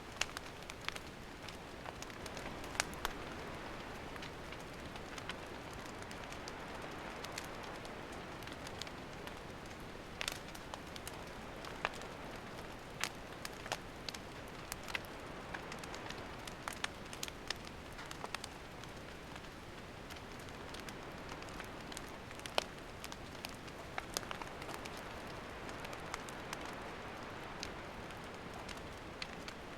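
Wood campfire burning with a steady hiss and scattered sharp crackles and pops from the burning wood.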